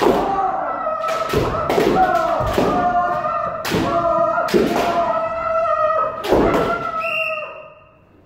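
Kendo practice: bamboo shinai strikes and stamping footwork thud about once a second, over long, held kiai shouts from the practitioners. It dies down near the end.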